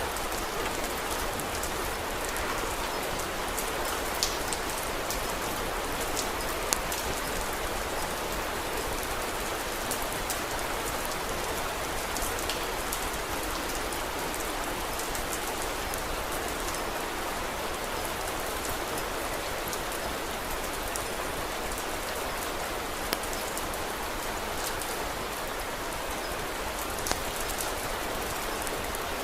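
Steady rain falling, with a few sharp crackles from a wood fire now and then.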